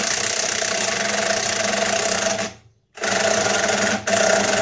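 A power tool running in loud bursts: it runs for about two and a half seconds, stops, starts again about three seconds in, and pauses briefly just after four seconds.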